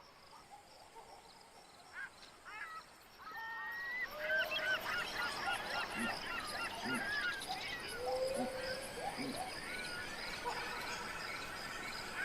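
A flock of birds calling over one another: a few scattered calls about two seconds in, then a dense, overlapping chorus of short rising and falling calls from about four seconds on. A thin steady high tone runs underneath.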